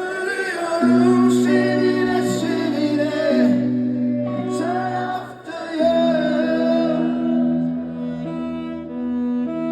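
Live band music: sustained chords under a wavering melody line, starting abruptly after a brief dip in sound.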